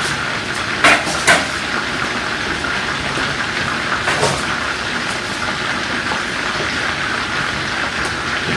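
Steady sizzling hiss of chicken thighs frying in an electric skillet, with two sharp clinks about a second in and a lighter one around four seconds.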